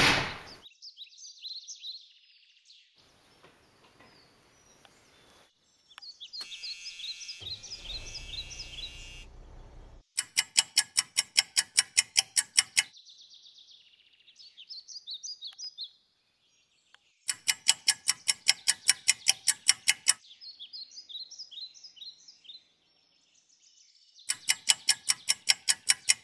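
Bird song: bursts of short high chirps alternating with rapid trills of about ten notes a second, each lasting a few seconds with brief pauses between, plus a denser stretch of other sound about seven seconds in.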